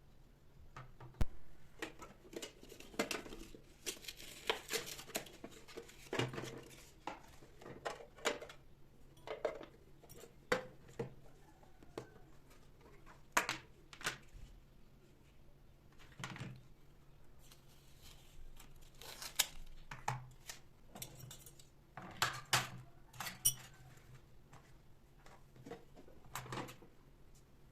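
Irregular clinks, taps and rustles of household objects being handled close by, one sharp click about a second in being the loudest, over a faint steady low hum.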